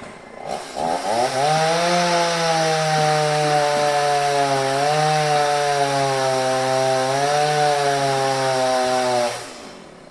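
Chainsaw revving up from idle to full speed, running flat out with its pitch sagging briefly twice, then dropping back near the end.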